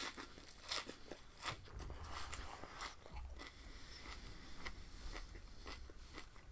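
Close-up chewing and crunching of raw spinach stalks, an irregular run of crisp, wet crunches.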